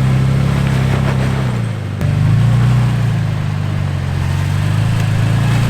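Off-road truck engine running at low, steady revs while crawling up a rock obstacle. The engine sound drops briefly just before two seconds in, then picks back up at a slightly different pitch.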